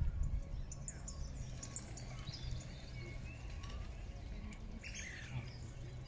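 Small birds chirping with short, high calls, busiest in the first couple of seconds and again about five seconds in, over a low steady rumble.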